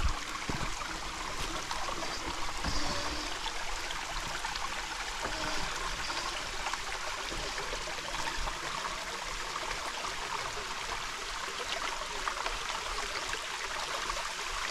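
Running water: a steady, even rush of noise.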